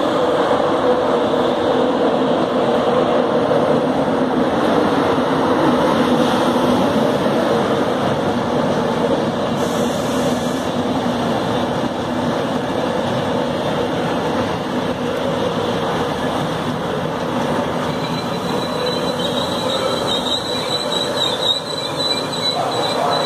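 An LNER InterCity 225 train, a Class 91 electric locomotive hauling Mark 4 coaches, passing close by with a loud, steady rumble of wheels on the rails. A thin, high wheel squeal comes in near the end.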